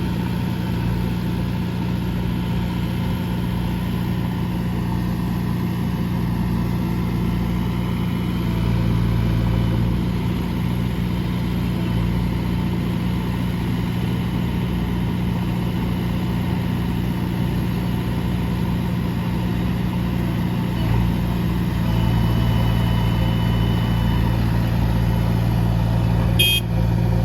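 Heavy diesel engine of earthmoving or truck machinery running steadily, working a little harder twice. A brief sharp click near the end.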